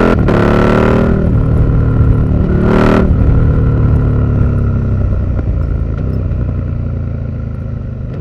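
KTM 1290 Super Duke R's V-twin engine through an Austin Racing V3 200mm exhaust, revving hard. The revs climb with a brief cut just after the start and drop about a second in. A second short, sharp rev comes near three seconds, then the revs fall and the sound slowly fades.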